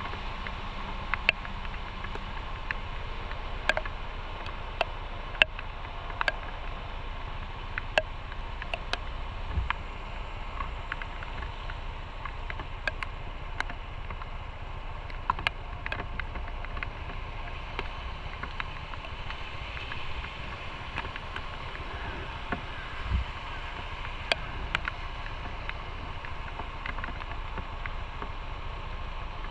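Motorcycle on the move: a steady engine and road-noise drone, broken by sharp, irregular clicks every second or so.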